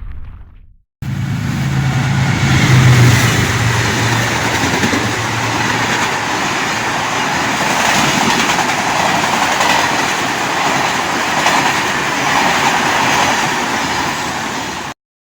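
Train arriving at a station, running with a steady rumble and rail noise and a low engine hum strongest in the first few seconds. The sound cuts in about a second in and cuts off abruptly near the end.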